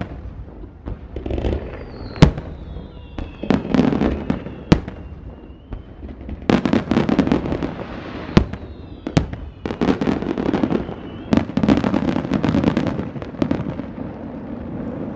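Aerial fireworks display: sharp shell bursts and crackling, with a few thin whistles that fall in pitch. The bursts come thick and fast from about halfway through.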